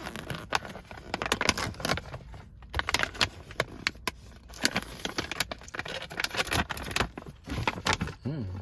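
Snack packaging being opened and handled: irregular, rapid crinkling and crackling of the wrapper.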